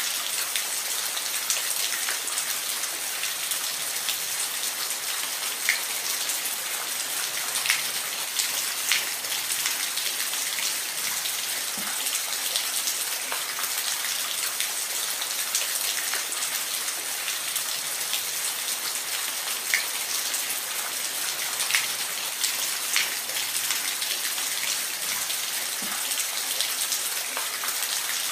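Waterfall: a steady rush of falling water, with scattered sharp splashes and drips standing out here and there.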